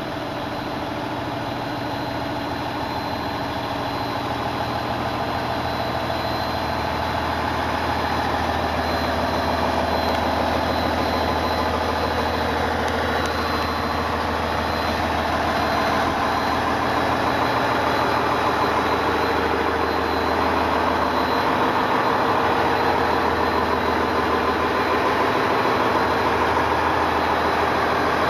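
Diesel engine of a JR Central HC85 hybrid Limited Express Hida train idling steadily while the train stands at the platform, with a thin steady high whine over the engine hum.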